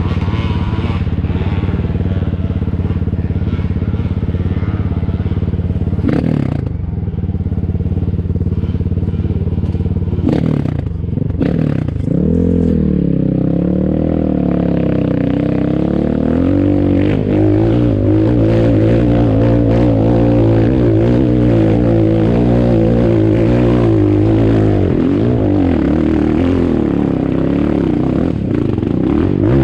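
Enduro dirt bike engine, first running steadily at idle with a few short knocks, then from about twelve seconds in revving up and down in pitch as the bike is ridden.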